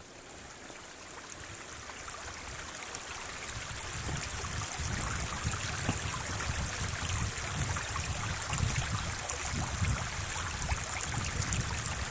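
Steady rushing of sea water at the shore, growing louder over the first few seconds, with gusty low rumbles of wind on the microphone.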